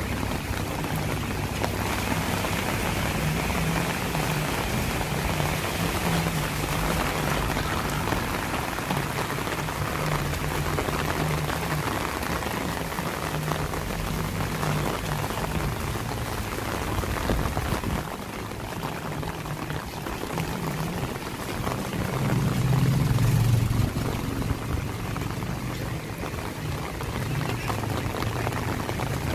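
Steady rain falling on a wet street, with a low engine hum underneath that swells for a couple of seconds about three-quarters of the way through.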